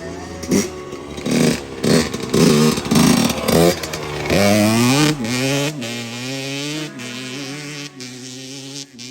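Dirt bike engine revving: several short throttle blips, then a longer rise and fall in pitch, settling to a steadier run near the end.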